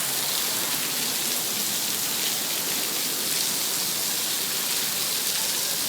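Storm rain pouring down steadily, an even hiss with no breaks.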